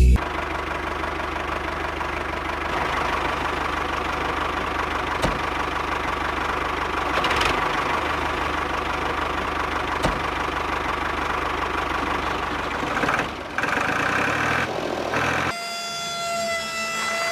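Tractor engine running steadily at a low, even idle. Near the end it gives way to a steady high two-tone wail like a siren.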